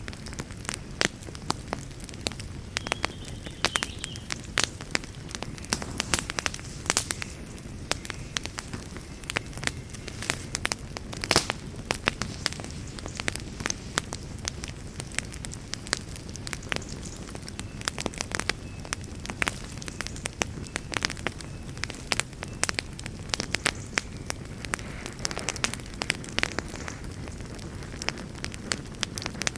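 Campfire burning, with irregular sharp crackles and pops from the wood over a steady low rumble of the flames.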